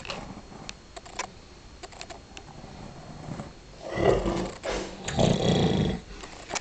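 A dog 'talking': two drawn-out, low, rough grumbling vocalizations in the second half, after a few faint clicks.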